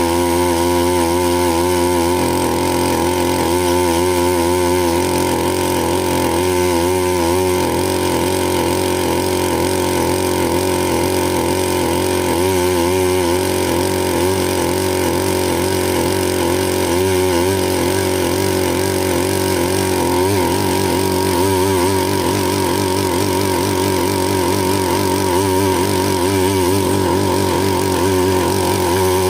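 Bernard Moteurs W14 15 HP engine running steadily at an even level.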